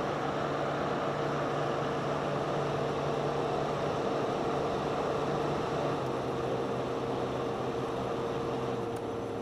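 1971 Sears Coldspot window air conditioner running with its fan on high and the compressor on: a steady rush of air over a constant low hum.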